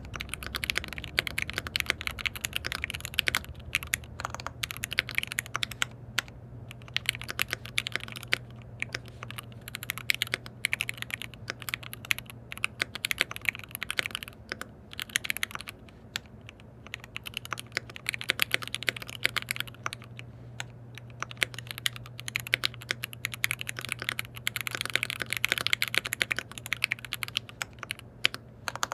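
Typing on a KBD67 Lite R3 custom mechanical keyboard with lubed switches and stabilizers: quick runs of key clacks broken by brief pauses, over a steady low hum.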